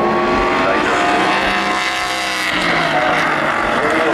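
Race car engines at high revs going past on the circuit, their pitch sliding as they pass, over a steady rush of noise. A different engine note takes over about two and a half seconds in.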